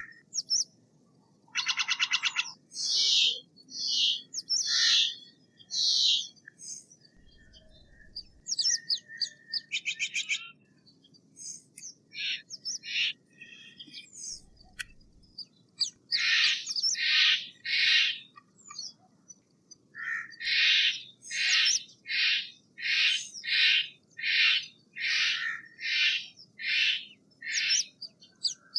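Steller's jay giving harsh, raspy calls: a buzzy rattle near the start, scattered single calls, then a long run of evenly spaced harsh calls, about one and a half a second, in the second half.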